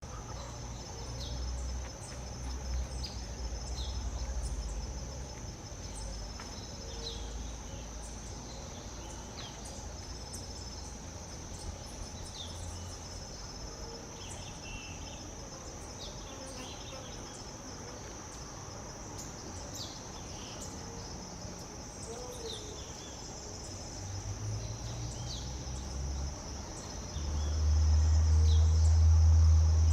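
Steady high-pitched trilling of insects, crickets or cicadas, with short scattered bird chirps over it. A low rumble underneath swells and becomes the loudest sound near the end.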